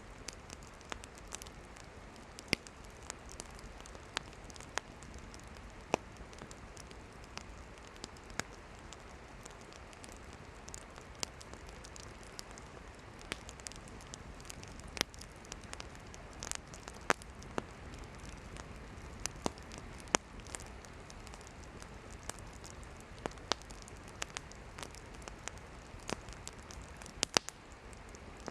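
Wood campfire burning, with irregular sharp crackles and pops of firewood, a few loud ones standing out, over a steady low hiss.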